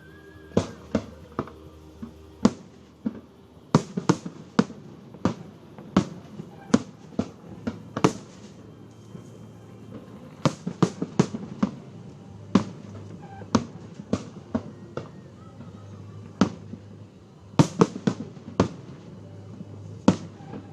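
Fireworks bursting: dozens of sharp bangs at irregular spacing, coming in thick rapid clusters between quieter stretches.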